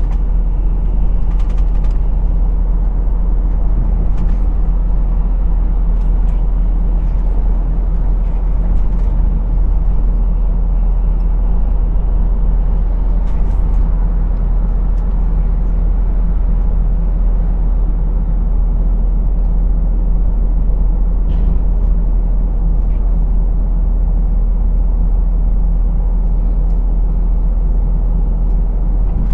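Lorry's diesel engine running at a steady speed, a constant low drone and rumble with a few faint ticks and clicks here and there.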